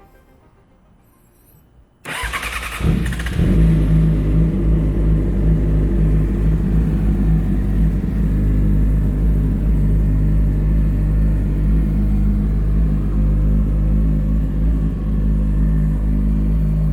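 2014 Yamaha YZF-R6 inline-four with a Two Brothers aftermarket exhaust being started: about two seconds in the starter cranks briefly, the engine catches about a second later and then idles steadily.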